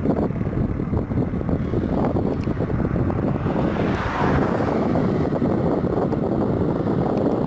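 Heavy diesel truck running under load on a climb, a loud, rough rumble that swells to a peak about four seconds in, as if passing close.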